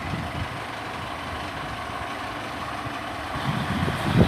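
Diesel engines of a Class 153 and Class 150 Sprinter multiple-unit train idling at the platform as a steady rumble, just before departure. The engine noise grows louder from about three seconds in.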